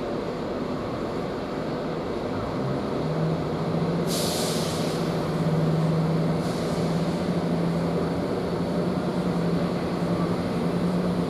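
East Midlands Railway Class 170 Turbostar diesel multiple unit's underfloor diesel engines opening up as the train starts to depart, the engine note rising a little and then holding steady. Two short bursts of air hiss sound about four and six and a half seconds in.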